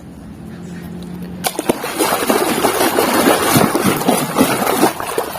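Water running and splashing over a muddy plastic toy as it is washed, starting suddenly about a second and a half in.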